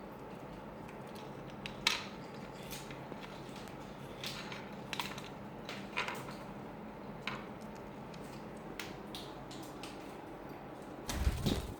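Lovebirds making scattered short, sharp chirps and clicks, about one every second or so, over a steady low hum. A low rumbling knock comes near the end.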